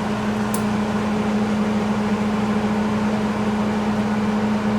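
A steady mechanical hum from a running machine, with a strong low tone and a hiss, and one faint tick about half a second in.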